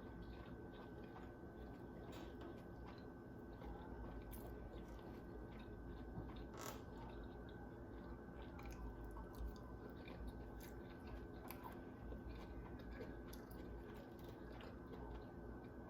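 Faint chewing and eating with scattered small clicks, over a steady low hum.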